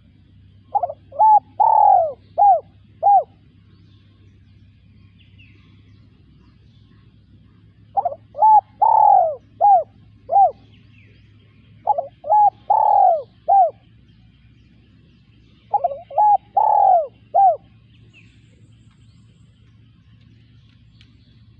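Spotted dove cooing: four phrases of about five quick coo notes each, the third note of each phrase drawn out longest.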